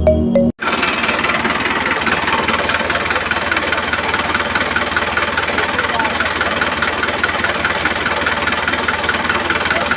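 Small motor running steadily with a fast, even rattling tick, like a tiny engine idling.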